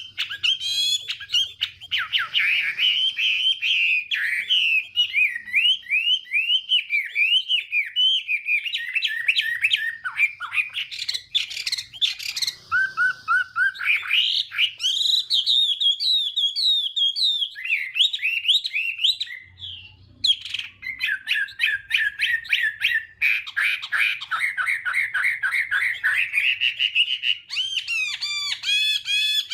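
Chinese hwamei singing its fighting song: a long, rapid, varied run of loud sweeping whistled notes and trills, broken by a short pause about two-thirds of the way through.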